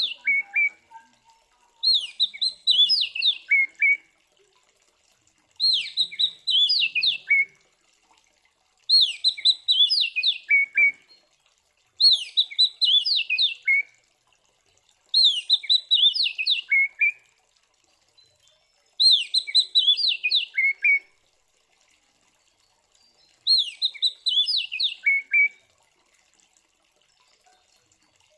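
Oriental magpie-robin (kacer) singing the same short phrase over and over, about every three and a half seconds. Each phrase is a quick run of high notes that drops to lower notes at its end.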